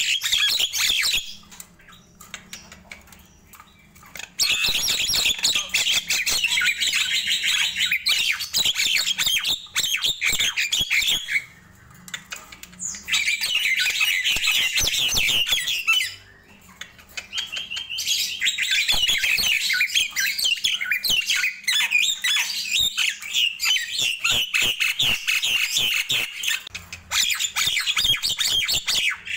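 Nias hill myna calling in long bouts of rapid, harsh chattering notes. The bouts break off briefly about a second in, again near the middle, and once more about two thirds of the way through.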